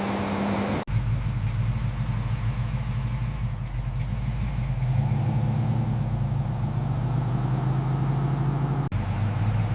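Car engine running steadily with a low, even hum, broken by two abrupt edit cuts, about a second in and near the end.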